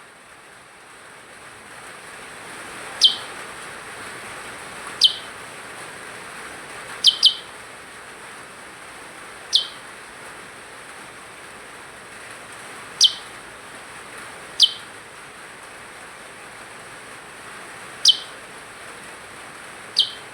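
A percang songbird giving short, sharp single chirps, each a quick downward sweep, nine in all at irregular intervals of one to four seconds, two of them in quick succession about a third of the way in. A steady hiss lies beneath.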